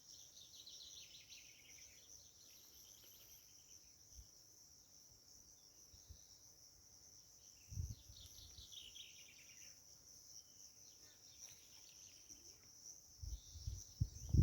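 Faint, steady high-pitched chorus of crickets, with bouts of rapid chirping trills twice. A few low thumps come about halfway through and again near the end.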